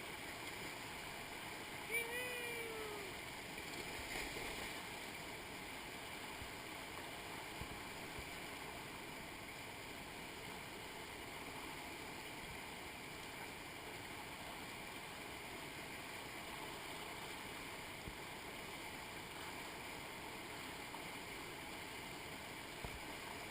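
Steady rush of white water from river rapids. About two seconds in, a short voice call falls in pitch.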